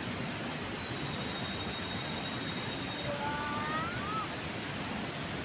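Steady outdoor rushing noise with bird calls over it: one thin, high whistle held for about two seconds, then a few short rising whistled notes about three to four seconds in.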